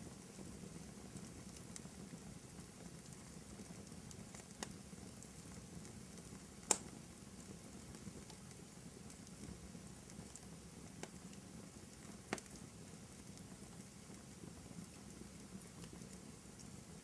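Wood fire burning in a fireplace: a faint, steady low rush with a few sharp crackles and pops, the loudest about a third of the way in.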